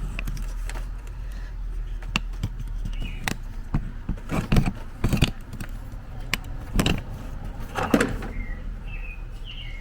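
Hand tools and loose parts clicking and knocking in a car's engine bay as a screw is taken out, with a few short squeaks, over a steady low hum.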